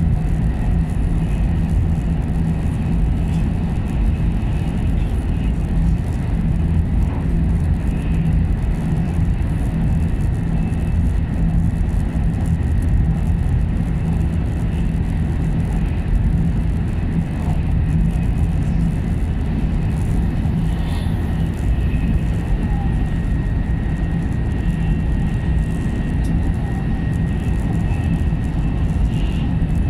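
Steady low rumble of a 700 series Shinkansen running, heard from inside the passenger cabin. A faint high steady tone joins about two-thirds of the way through.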